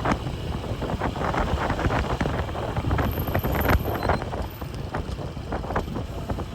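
Wind buffeting the microphone of a moving motorcycle, over steady low engine and road noise.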